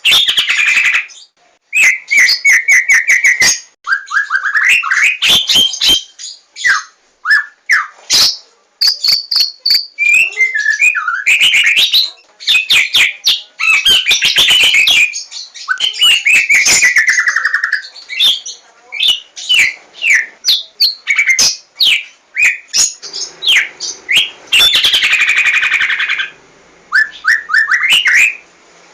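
White-rumped shama of the Javan type singing a loud, varied song. Quick trills and whistled phrases mix with sharp clicking notes, in rapid bursts separated by short pauses.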